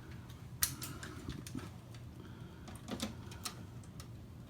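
Scattered light clicks and taps at irregular intervals, from a toy train and its track being handled while it is set up for a test run.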